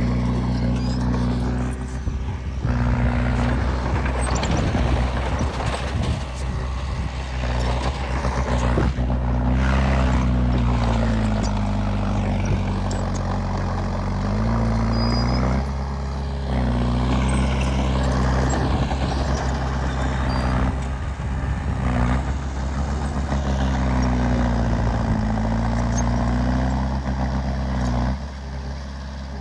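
Heavy diesel earthmoving machinery engine running under load, its pitch dipping and recovering several times, with scattered knocks and rattles.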